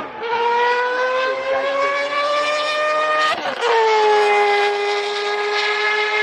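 Historic Group C race car engine pulling hard through a gear, its pitch rising steadily, then a quick, snappy upshift about three and a half seconds in drops the pitch, and it runs on at high revs.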